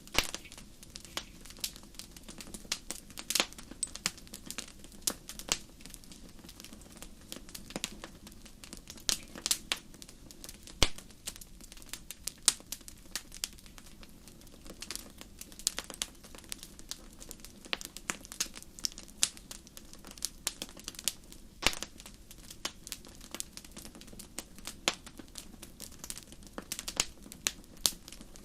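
Wood fire crackling: irregular sharp pops and snaps, some louder than others, over a soft steady low rush of burning.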